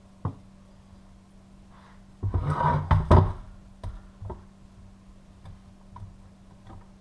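Handling noises from a metal-cased chainsaw being worked on: a single sharp knock, then about a second of clatter and knocking, then a few light clicks.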